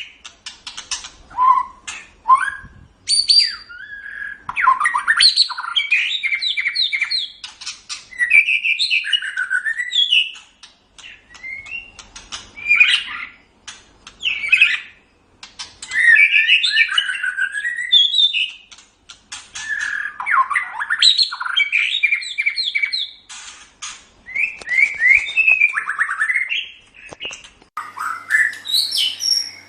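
White-rumped shama (murai batu) singing a long, varied song: phrases of rapid repeated notes, whistled glides and sharp clicking notes, separated by brief pauses.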